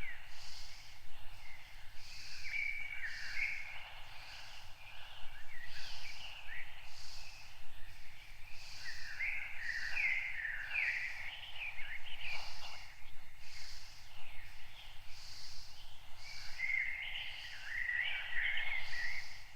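Wild birds singing in warbling phrases that come and go, with a high chirp repeating about once a second in the background.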